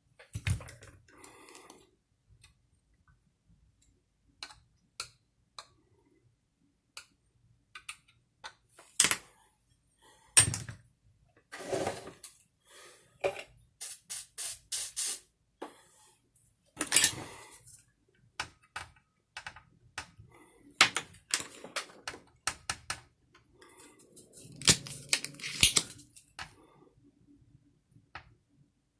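Irregular clicks, taps and short knocks of small hard parts and tools being handled, with brief rustling now and then.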